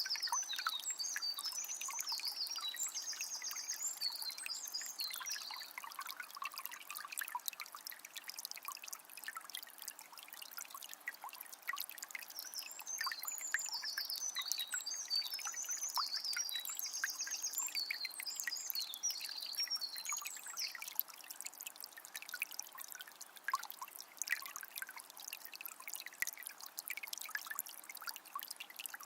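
A small spring's water trickling and splashing without a break. Over it, a songbird sings rapid, high chirping phrases in two long spells, in the first seconds and again in the middle, and starts up once more at the very end.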